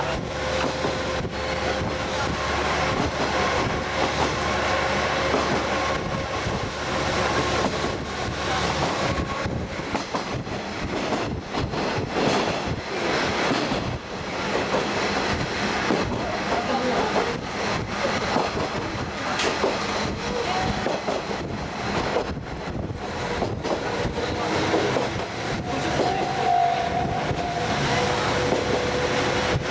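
Diesel trolley train heard from on board while running: a steady rush of running noise with wheels clacking over rail joints, and a steady whine through the first third.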